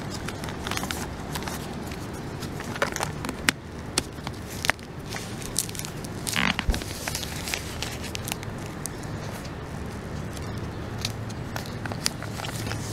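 Heavy plastic sheeting crinkling and tape being pulled and pressed down while a hole is patched over, with scattered sharp clicks and crackles and a longer rustle about six and a half seconds in. A steady low hum runs underneath.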